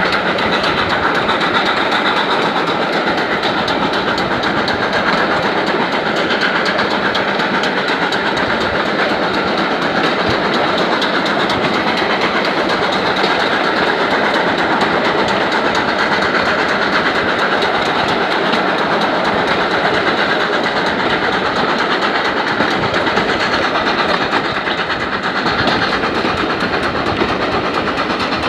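Steam train hauled by the GWR Manor-class 4-6-0 Foxcote Manor on the move: a loud, steady noise of the train running over the rails, with fine clicking throughout and a brief dip near the end.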